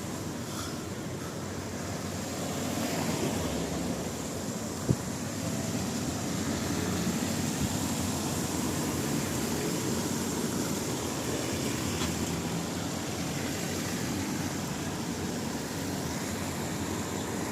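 Steady rain falling, with a low rumble underneath and one sharp click about five seconds in.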